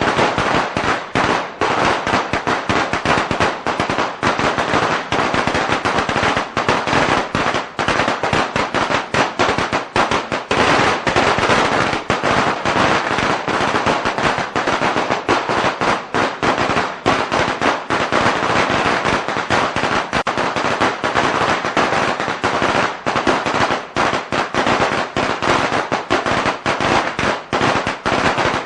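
A long string of firecrackers going off in a fast, unbroken crackle of sharp bangs, loud and continuous throughout.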